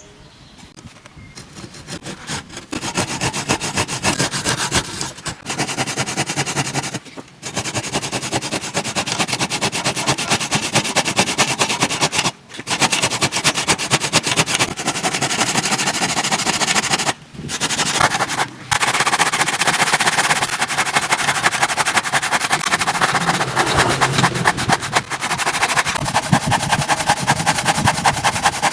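A saw blade's teeth being sharpened: a dense, rapid metal-on-metal rasping clatter that starts a couple of seconds in and stops briefly a few times.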